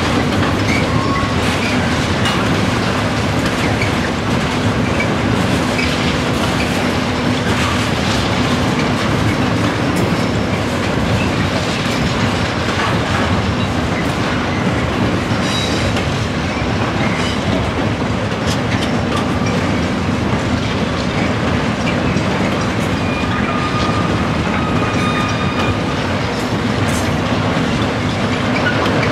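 Container freight train's wagons rolling past: a steady rumble of steel wheels on rail with clicking over the rail joints, and a few faint, brief high wheel squeals in the second half.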